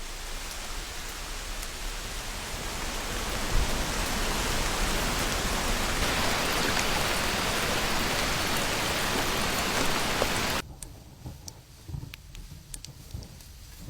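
Steady rain hiss that swells over the first few seconds and holds, then cuts off abruptly about ten seconds in, leaving a low rumble and scattered drips.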